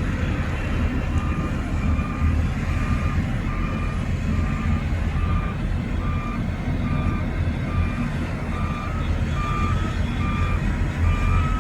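Reversing alarm on heavy earthmoving machinery beeping steadily, about two beeps a second, over the loud low rumble of diesel engines running.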